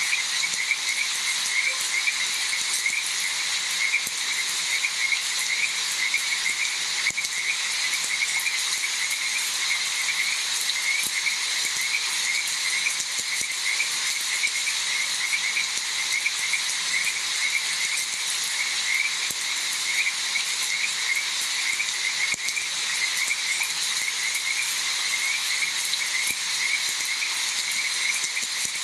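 Frogs croaking in a rapid, continuous chorus of short repeated calls, over a steady hiss of falling rain.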